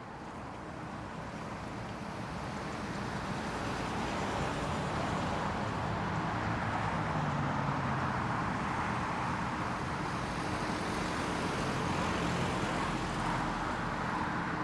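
Virgin Atlantic Airbus A330-941's Rolls-Royce Trent 7000 jet engines as the airliner comes in to land, a steady roar that slowly swells to a peak past the middle and then begins to fade.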